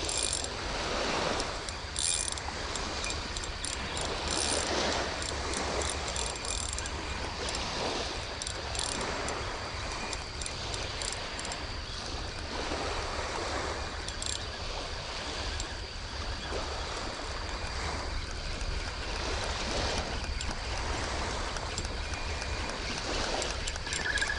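Light surf washing onto a sand beach: a steady hiss of small waves that swells and eases every few seconds.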